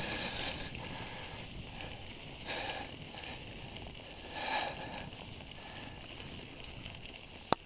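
Low rolling and rustling noise from a mountain bike on a dirt trail, with the rider sniffing sharply twice, about two and a half and four and a half seconds in. A few sharp clicks near the end.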